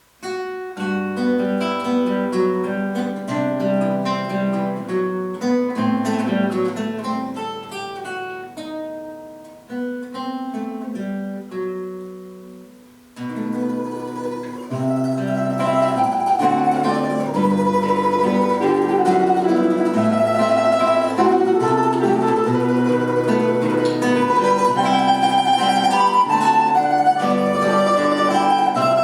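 Instrumental duet of plucked string instruments playing a slow, lyrical piece. A sparser opening phrase dies away, then about thirteen seconds in a fuller, louder passage begins with longer-held melody notes over a bass line.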